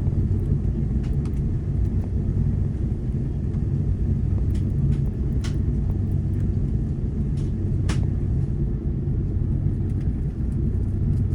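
Steady low rumble inside an Airbus A330-200 cabin while the airliner taxis, with the engines' hum under it. A few light clicks come through, the sharpest about eight seconds in.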